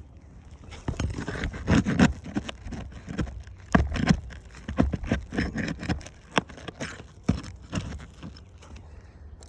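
Irregular scrapes, knocks and sharp taps of tools and hands working loose asphalt roof shingles, starting about a second in and dying away near the end.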